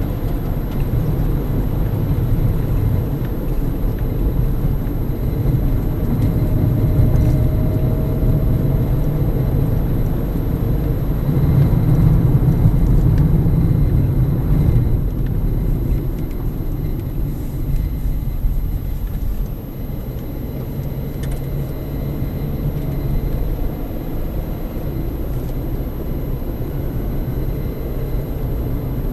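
Steady low rumble of a car driving, its road and engine noise swelling a little partway through and easing off later.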